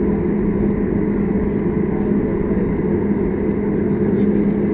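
Steady airliner cabin noise while taxiing: jet engines at low taxi power, with a constant low hum.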